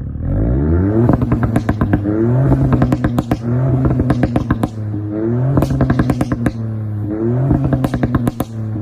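Ford Fiesta ST Mk8's 1.5-litre three-cylinder turbo engine revving repeatedly through its exhaust, with rapid pops and crackles between the revs. The pitch climbs sharply at the start and rises and falls again several times.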